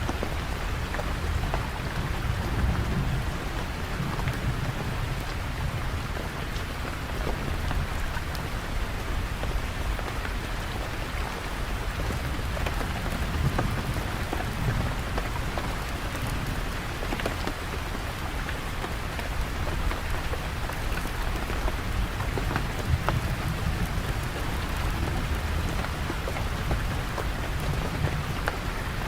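Steady rain falling, with many separate drops ticking over a constant low rumble.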